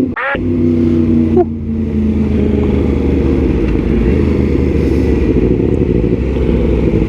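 Yamaha MT-10 SP's crossplane inline-four running through an aftermarket Austin Racing exhaust while being ridden. There is a brief dip and a quick rise in pitch at the start, then a steady cruise.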